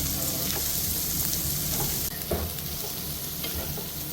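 Food sizzling in a steady hiss, the top of the hiss easing about two seconds in.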